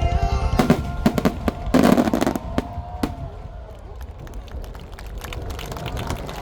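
Fireworks display: a rapid string of sharp bangs and crackles, densest and loudest about two seconds in, then thinning to scattered crackles.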